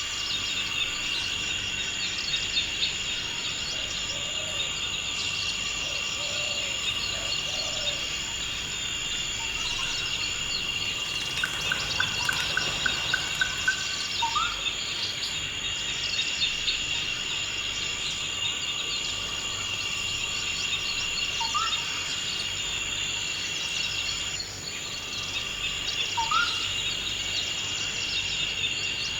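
Forest ambience: a steady, dense chorus of crickets and other insects, with occasional bird calls over it. Midway there is a short rapid trill, followed by brief rising whistled notes three times.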